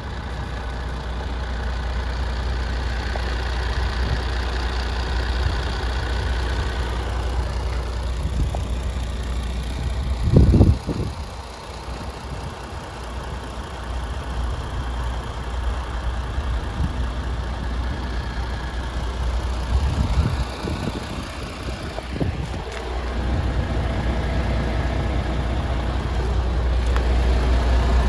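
MAN TGX 26.470 tractor unit's 470 bhp six-cylinder diesel engine idling steadily with a low hum. A brief loud burst comes about ten seconds in, with smaller bumps about twenty seconds in.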